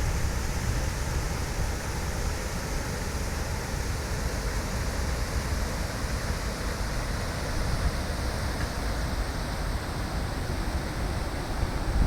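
Steady rushing noise with a heavy, uneven low rumble underneath.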